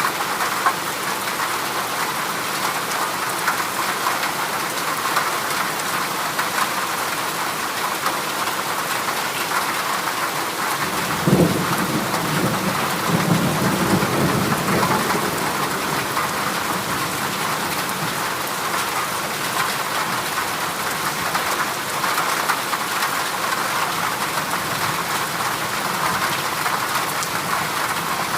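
Heavy rain drumming steadily on a corrugated zinc sheet roof, an even hiss. About eleven seconds in a low rumble of thunder breaks in suddenly and fades away over several seconds.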